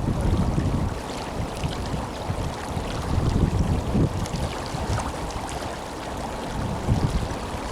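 Tenryū River flowing strongly: a steady rush of water with small splashes, and low gusts of wind buffeting the microphone.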